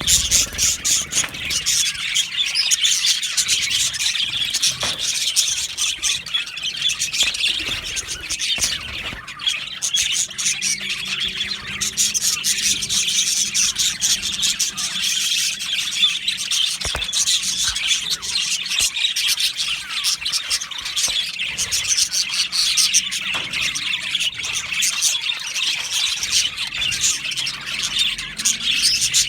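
A flock of budgerigars chattering and chirping continuously, many overlapping quick warbles and squeaky calls.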